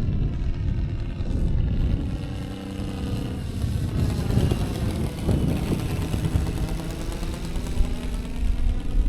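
Saito FG-60R3 three-cylinder four-stroke radial petrol engine of a quarter-scale RC Sopwith Pup running in flight as the plane passes by, with a sweep in the sound about five seconds in. Wind rumbles on the microphone underneath.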